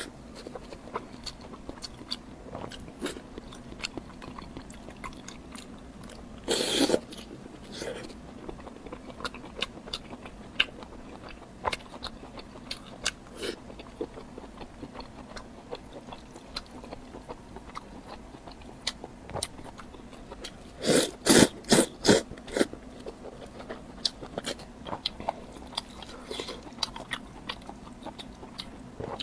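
Close-miked eating: chewing with many small wet mouth clicks, a louder bite about seven seconds in and a run of several loud crunchy bites a little past the twenty-second mark.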